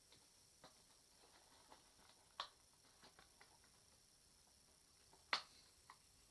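Near silence broken by a few faint, sharp clicks and taps, the loudest a little over five seconds in.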